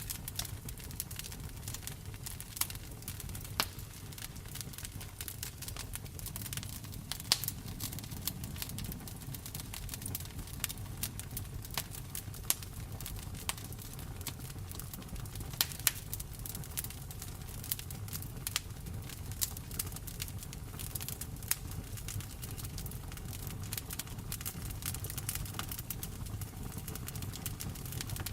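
Fireplace wood fire crackling, with sharp, irregular pops over a steady rain.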